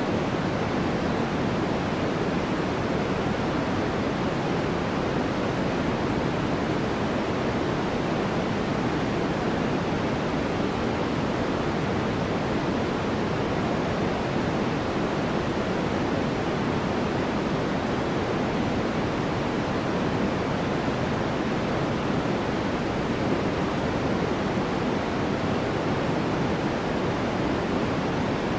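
Continuous white noise for sleep: a steady, unchanging rushing hiss, fuller in the low and middle range than in the highs.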